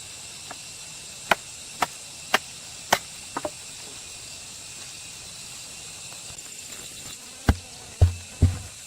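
A series of sharp knocks about half a second apart, then after a pause three heavier, deeper thumps near the end, over a steady high chirring of insects.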